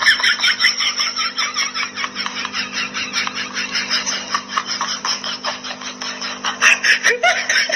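Hard, continuous laughter in quick repeated bursts, about five or six a second, over a steady low hum.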